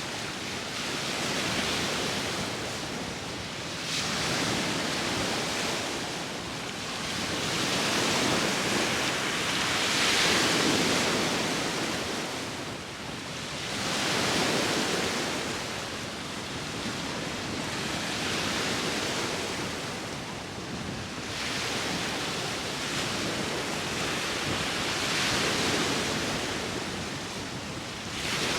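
Sea waves washing in on the shore in slow surges, each swelling and falling away every few seconds, with wind blowing over them.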